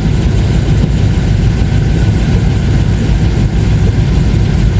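Engine idling steadily with a deep, even rumble, warming up after a cold start.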